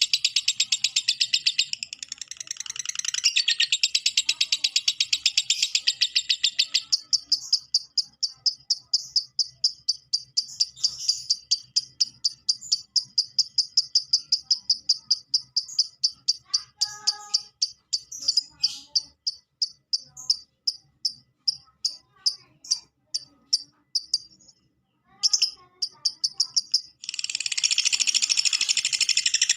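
Lovebird singing its long 'ngekek' chatter, a dense, very fast high-pitched trill. It loosens into a rapid string of separate sharp chirps, breaks off briefly, and comes back as a dense trill near the end.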